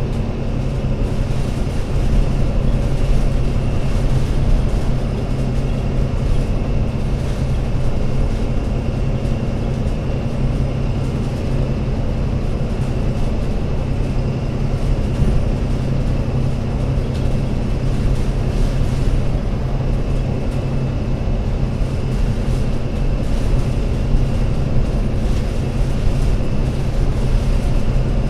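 Alexander Dennis Enviro500 MMC Euro 6 double-decker bus's diesel engine running at a steady speed, a loud low drone that holds one pitch with no revving.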